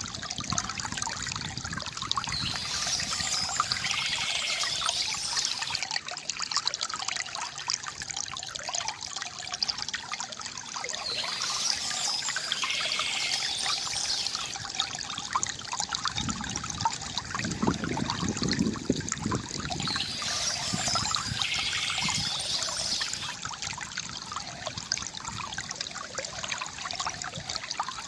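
Water trickling and splashing steadily from a bamboo fountain spout into a basin, with a fuller, lower splash swelling up briefly past the middle. A high-pitched patch of sound comes back about every nine seconds.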